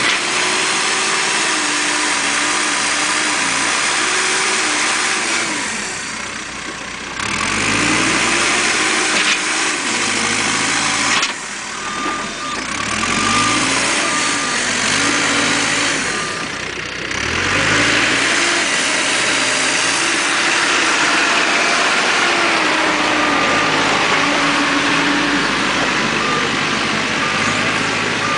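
Caterpillar 432E backhoe loader's diesel engine working under the operator's hands, its speed rising and falling; three times the revs drop away and then climb back up. A thin high whine comes and goes in short stretches over the engine.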